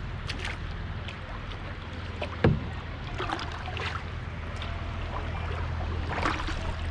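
Canoe paddle strokes dipping into and splashing through river water, with one sharp knock of the paddle against the hull about two and a half seconds in, over a steady low hum.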